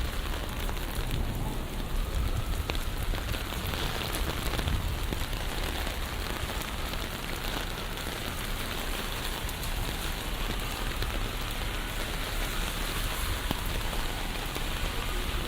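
Steady rain falling on a city street: a continuous, even hiss with a low rumble underneath.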